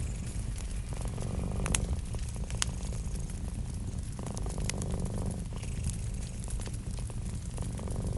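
A cat purring steadily over a wood fire crackling with sharp, scattered pops. The purr swells in roughly one-second stretches about a second in, midway and near the end.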